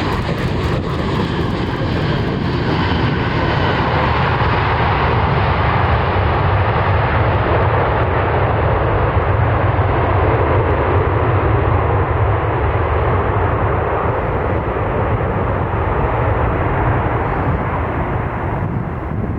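Jet airliner's engines passing close by, a loud steady rush that grows gradually duller as the aircraft moves away.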